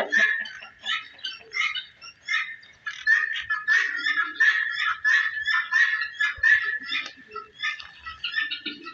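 Many small birds chirping together in a dense, continuous chorus of short calls, a few every second.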